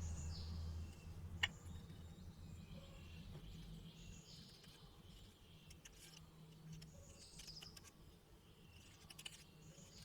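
Faint background ambience with small birds chirping now and then, and a single sharp click about a second and a half in.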